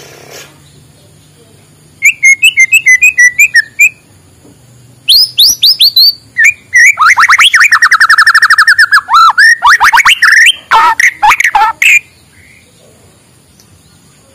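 White-rumped shama (murai batu) singing in three bursts. First comes a quick run of short chirping notes, then a few sweeping whistles, then a long phrase with a fast even rattle of many notes, ending in sharp sweeping whistles before it stops.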